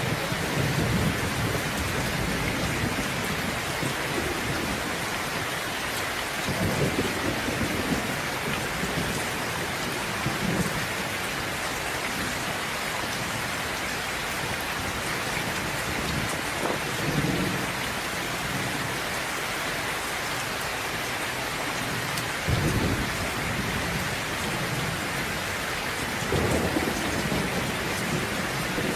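Steady rain, with low rumbles of thunder rolling in every few seconds; the one about three quarters of the way through starts more sharply than the rest.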